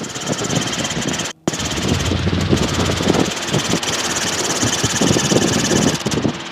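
Robinson R22 helicopter's piston engine and rotor noise in flight, heard through the headset intercom, with a rapid low throb; the sound drops out briefly about a second and a half in.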